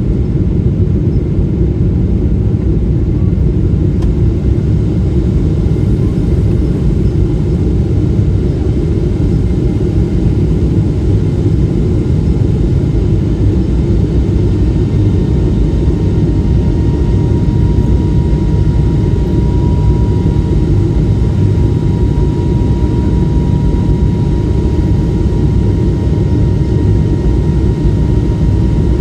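Steady in-cabin noise of a Boeing 777-300 in flight: a deep, even rumble from its Rolls-Royce jet engines and the airflow past the fuselage, with a faint steady whine joining about halfway through.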